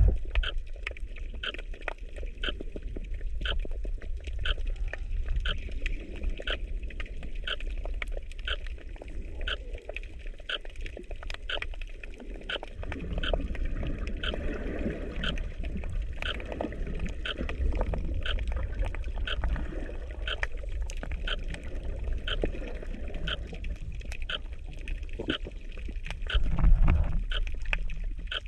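Underwater sound: a steady low rumble of moving water with a regular ticking, about two clicks a second, and a louder low surge of water near the end.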